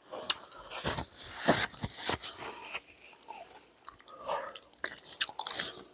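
A person chewing and biting food close to the microphone: irregular wet mouth clicks and smacks.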